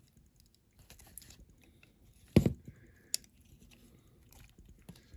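Light clicks and taps of a small diecast model car being handled while its base plate is tried back onto the metal body, with one sharp knock about two and a half seconds in and a smaller click soon after.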